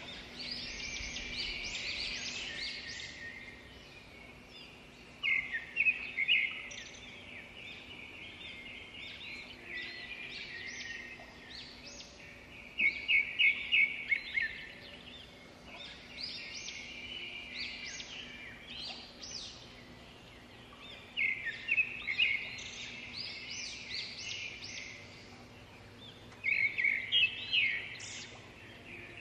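Songbirds singing continuously, with loud bursts of quick repeated notes every several seconds over a softer chorus of chirps.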